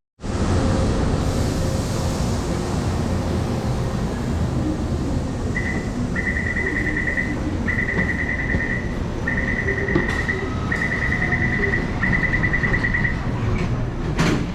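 Rapid high electronic warning beeping in six bursts of about a second each, over a steady loud rumble of a busy public place.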